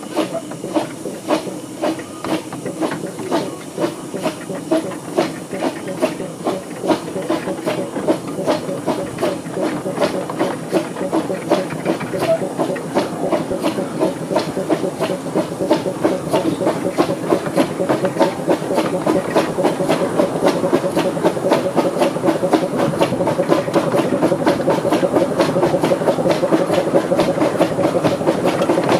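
Exhaust beats from the chimney of 'Northern Rock', a 15-inch gauge steam locomotive, as it works up a steep bank. The beats quicken from about two a second to about four a second and grow louder as the engine picks up speed, over a steady hiss of steam.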